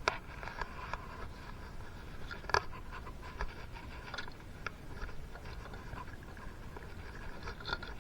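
Light clicks and scraping of hand work on small metal engine parts, with two sharper clicks: one at the start and one about two and a half seconds in.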